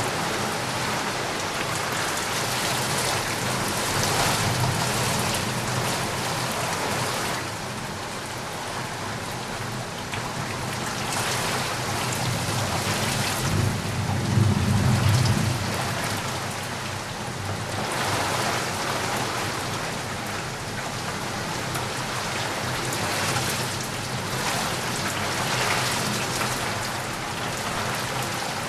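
Steady rain falling, the hiss swelling and easing in waves, with a low rumble of thunder about halfway through.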